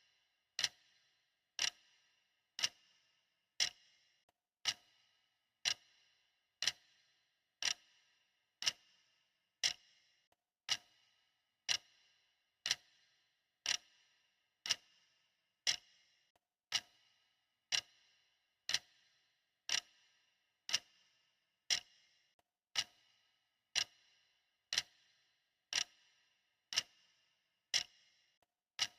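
Steady clock ticking for a timer, about one tick a second, each tick a sharp click with a brief ring.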